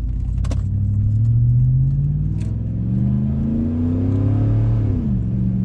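The tuned 5.3-litre Vortec V8 of a 2014 GMC Sierra pulling under acceleration, its pitch climbing for several seconds, then falling and settling about five seconds in as the throttle comes off.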